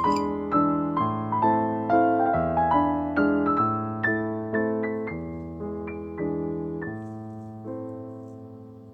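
Background piano music: a slow, gentle piece of sustained notes and chords that fades away toward the end.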